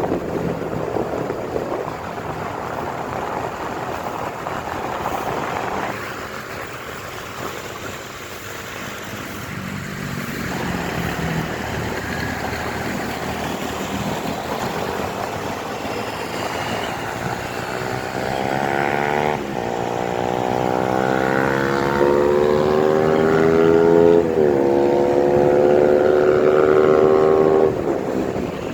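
Motorcycle engine running under road and wind noise; about two-thirds of the way in the engine note rises in pitch, dips sharply twice, then holds steady before falling away near the end.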